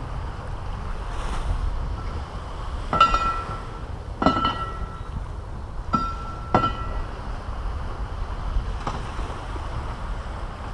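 Caribbean surf washing on the beach, heard as a steady low rumble with wind on the microphone. Over it come four sharp bird calls with a ringing tone, in two pairs: about three to four seconds in and about six seconds in.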